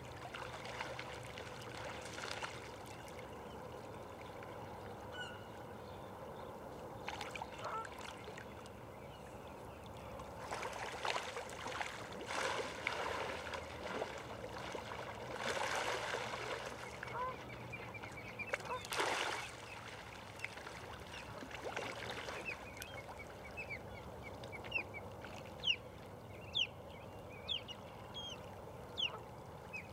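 Birds calling over a steady background of water-like noise, with louder stretches around the middle and a run of short, rising chirps in the last several seconds.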